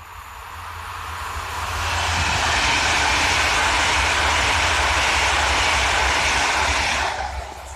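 PKP Intercity ED250 Pendolino electric high-speed train passing at speed: a rush of wheel and air noise that builds over about two seconds, stays loud, then falls away sharply near the end.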